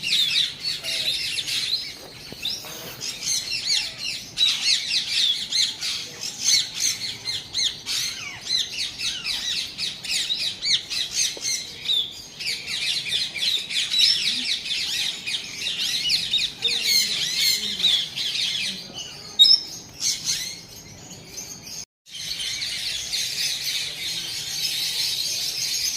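Dense chorus of many birds chirping and squawking at once, thinning briefly and cutting out for a moment near the end before resuming.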